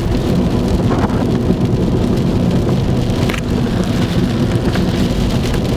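Heavy rain pelting a car's roof and windshield as it drives, with a steady low rumble underneath.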